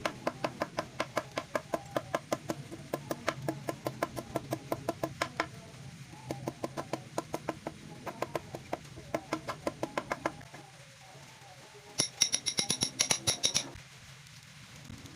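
Rapid, even hammer blows on metal, about four or five a second, then a pause of about a second. Then comes a louder, quicker run of strikes with a high metallic ring, which stops suddenly.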